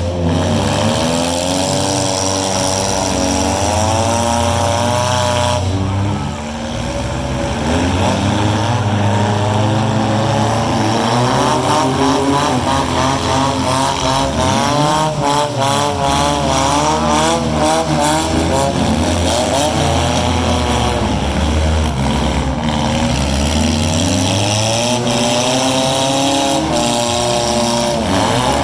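Several four-cylinder demolition derby cars' engines revving and running hard together, their pitches rising and falling, with a few sharp bangs around the middle.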